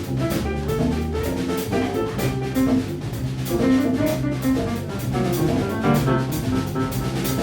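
Live Latin jazz band playing a fast Brazilian groove: drum kit and hand percussion keep a busy rhythm under an electric bass line and piano chords.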